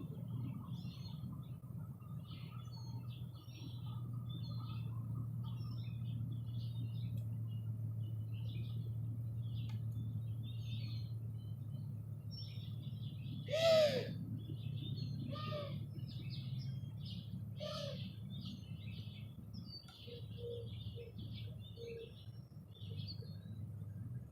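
Small songbirds chirping and chattering in quick short calls. About halfway through comes one louder call with a falling note, then two weaker ones, over a steady low hum.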